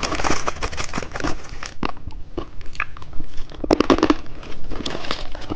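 Close-up mouth sounds of eating a foot-shaped lollipop dipped in popping candy: irregular crackling and small crunches, with wet mouth noises.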